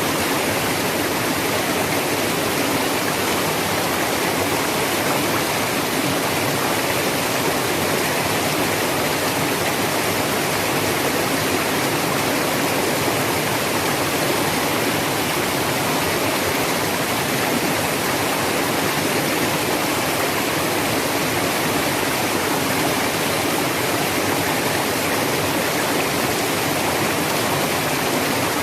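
Waterfall and river water rushing, a steady, even noise with no breaks.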